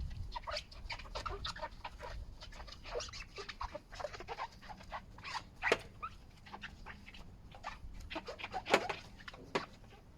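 Dog whining and yipping in many short, irregular squeaks, with two louder yelps in the second half.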